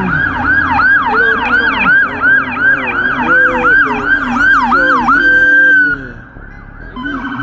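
Police siren on its fast yelp setting, sweeping up and down about three times a second, then holding a single tone for a moment about five seconds in before dropping away; a steadier siren tone comes back near the end, with a second, lower wailing siren underneath.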